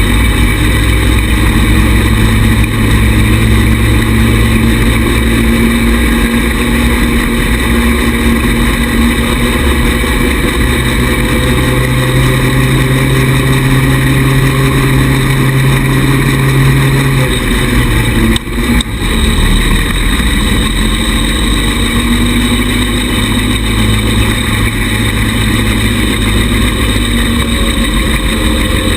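A 110cc buggy engine running steadily under way, its note shifting up and down with the throttle. There is a brief dip in the sound about two-thirds of the way through.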